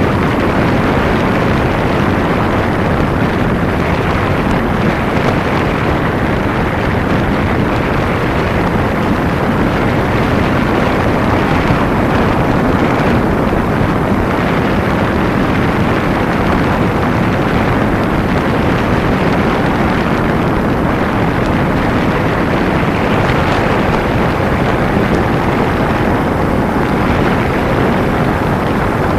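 Steady wind rushing over the microphone of a motorcycle at road speed, mixed with the running of a Kawasaki Ninja 250's engine. The noise is even and unbroken, with no clear rise or fall.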